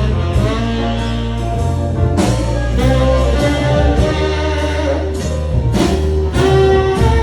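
Live band playing an instrumental passage, with held bass notes under sustained melody lines and drum strokes.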